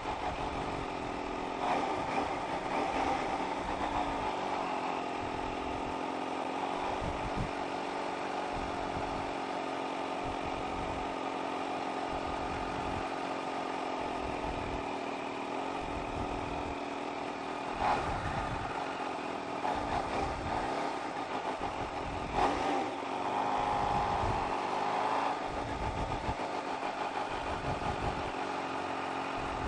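Supercharged inline-four engine of a 2019 Kawasaki Ninja H2 running at low road speed, its note steady with a few brief rises in revs.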